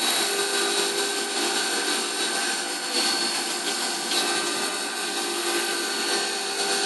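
CNC milling machine running a chamfer tool around a part's pockets and edges: a steady spindle whine with cutting noise.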